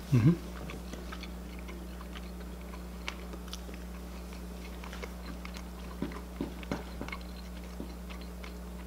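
A person quietly chewing a bite of meatball, with faint scattered mouth clicks, after a short voiced "mm" just after the start. A steady low hum runs underneath.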